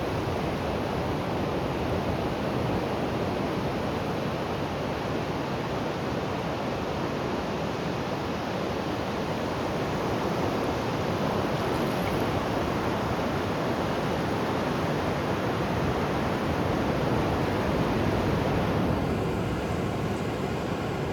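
Ocean surf washing onto a beach: a steady, continuous rush of waves.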